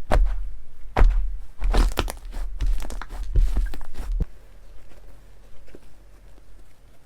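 Slime being squeezed and poked by hand, giving sharp wet pops and crackles about once a second, with denser crackling between them. After about four seconds it drops to a few faint clicks.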